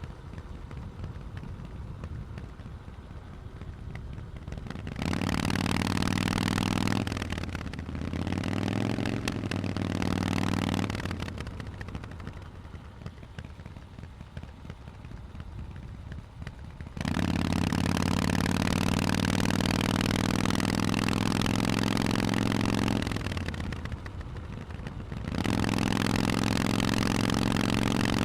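Harley-Davidson Forty-Eight's 1200 cc V-twin through Vance & Hines exhausts, riding with quieter off-throttle stretches broken by louder spells on the throttle: about five seconds in, again around nine seconds, a long one from about seventeen seconds, and again from about twenty-five seconds.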